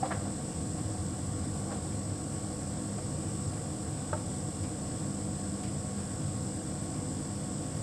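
Hotpoint heat pump tumble dryer running: a steady hum with a constant high whine, and a light click near the start and again about four seconds in.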